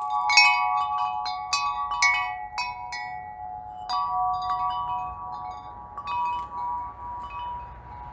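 Chimes struck over and over, each strike leaving a ringing tone. Strikes come thick and fast for the first three seconds, then fewer, and the ringing fades toward the end.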